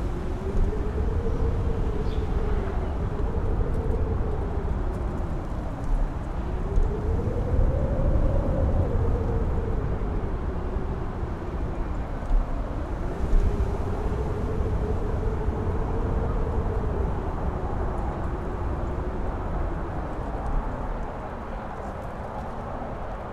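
Strong wind howling: a wavering whistle that rises and falls in pitch every few seconds over a heavy low rumble of wind buffeting.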